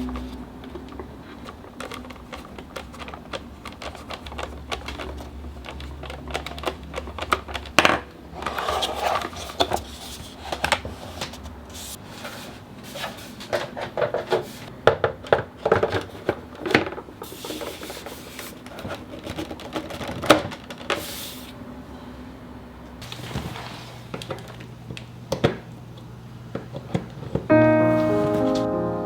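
Irregular clicks, taps and knocks of hard plastic parts being handled, over soft background music. Piano music comes in near the end.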